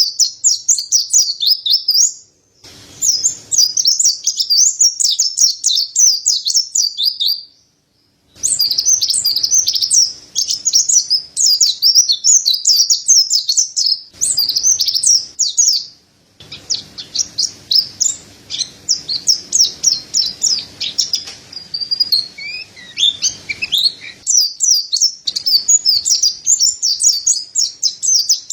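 Mountain white-eye (pleci dada putih) singing: a fast, high, twittering song in long runs, broken by short silences about 2.5, 8 and 16 seconds in.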